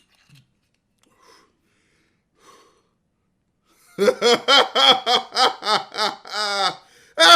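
A man laughing hard: a run of rapid, pitched "ha-ha" syllables bursts out about four seconds in, after a few faint breaths. It breaks off briefly and starts again near the end.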